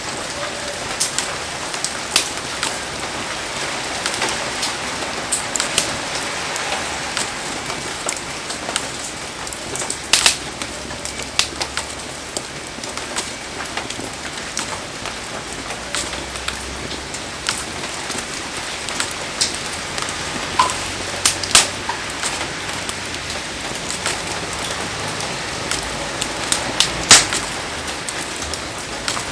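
Heavy rain falling steadily on a campfire site, with the fire crackling through it in scattered sharp pops, a few of them loud.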